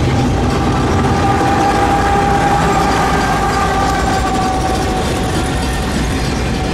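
Double-stack intermodal freight train rolling past at track side: steel wheels clattering and rumbling over the rails, with a mid-train BNSF diesel locomotive going by about four seconds in. A steady high tone sits over the rumble for a few seconds in the middle.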